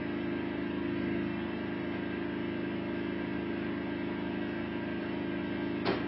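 Steady mechanical hum of a running motor or engine at an even pitch, with a short knock near the end.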